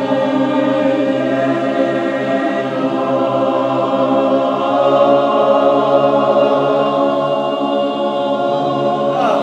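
A cappella chorus singing a sustained chord during a vocal warm-up counting drill. The voices hold steady pitches with only small shifts.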